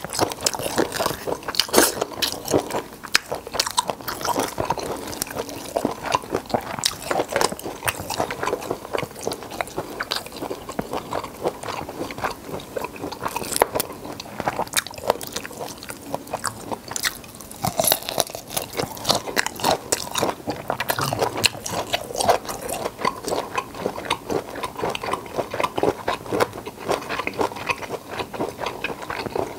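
Close-miked biting and chewing of black tiger shrimp: a dense, irregular run of crunchy clicks.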